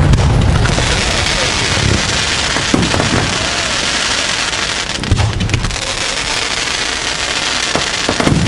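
Aerial fireworks: three deep booms of bursting shells, at the start, about five seconds in and near the end, with a steady crackling hiss of crackle shells between them.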